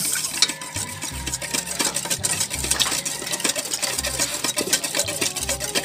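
Spoon stirring and scraping pancake batter ingredients in a mixing bowl: a run of quick small clicks and scrapes.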